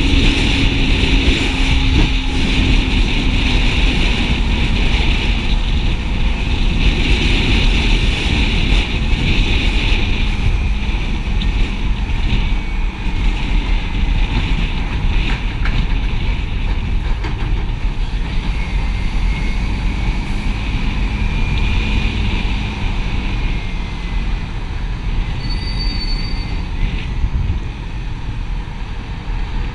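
A motorcycle riding along a highway: the engine runs steadily under loud wind rush on the microphone, and the engine note eases down slightly in the first few seconds.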